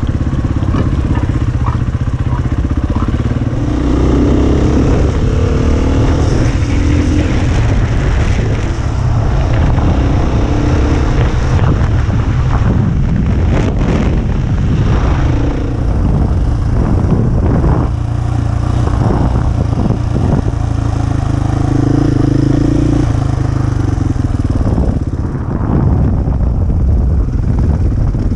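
KTM dirt bike engine running under way, its pitch rising and falling with the throttle, with scattered knocks and rattles through the middle.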